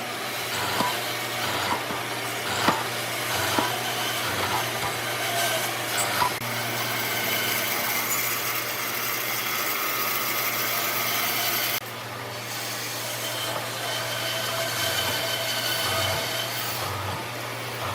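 Wood being worked with a hand or power tool, a continuous scraping, sawing kind of noise with a few sharp knocks in the first few seconds. The sound drops suddenly about twelve seconds in and carries on more quietly.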